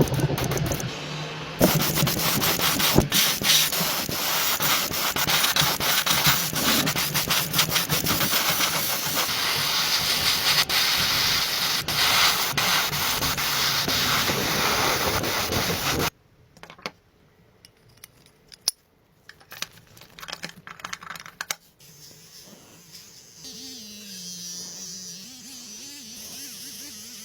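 Loud, rough rasping and hissing noise full of small crackles, like abrasive sanding or rubbing on a car body. It cuts off suddenly about two-thirds of the way through, leaving a few scattered knocks and clicks.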